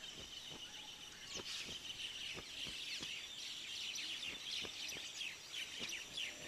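A chorus of small birds chirping, with many short, high, quickly falling chirps overlapping throughout, and a few faint clicks scattered among them.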